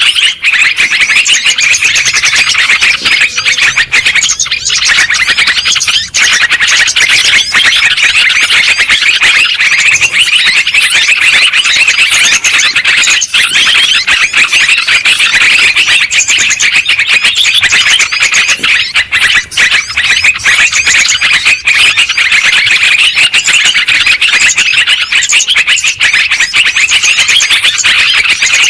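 Yellow-vented bulbuls chattering noisily, with many quick, overlapping chirps and no break.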